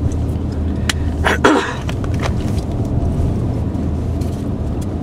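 Steady low rumble of a car's engine and tyres heard from inside the cabin while driving on a snowy road, with a few short clicks and a brief louder noise about a second and a half in.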